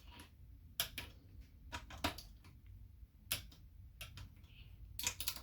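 Hand torque wrench tightening small valve-body bolts to 9 foot-pounds, giving sharp metallic clicks at irregular intervals, with a quick run of clicks near the end.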